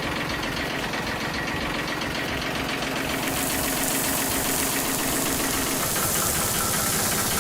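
Cartoon sound effect of a machine engine running with a fast, steady rattle. A high hissing rush joins about three seconds in.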